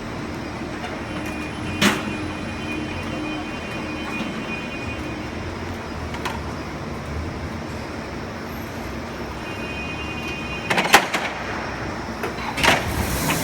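1600-ton hydraulic injection moulding machine running: a steady mechanical drone with a couple of faint steady tones and several sharp knocks, the loudest a quick cluster near the end.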